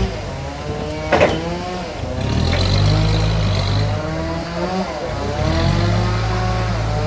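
Sawmill band saw running, its pitch dipping and rising as the blade works through a large log, over a steady low machine hum, with a sharp knock about a second in.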